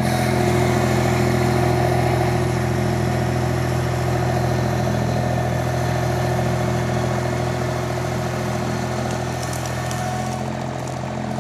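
Mini skid steer engine running steadily at a constant pitch while the machine works with a pallet of about 2,000 pounds of concrete block, near its lifting limit.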